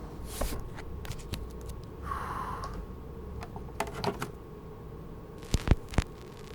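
A few scattered light clicks and taps over a low steady hum, with a short soft hiss about two seconds in and two sharper clicks a little under a second apart near the end.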